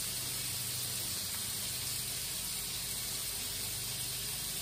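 Crumbled sausage and diced zucchini frying in olive oil in a skillet on a low gas flame, giving a steady, even sizzle.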